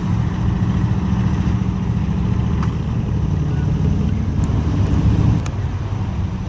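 A car engine running at low revs, a steady deep rumble that drops in level about five seconds in.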